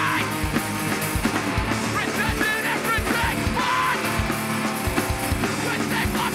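Hardcore band playing live at full volume: distorted guitars, pounding drums with frequent kick-drum hits, and shouted vocals.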